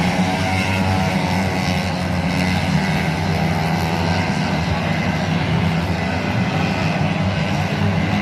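A small motorcycle engine running steadily during a tune-up, its speed holding fairly constant.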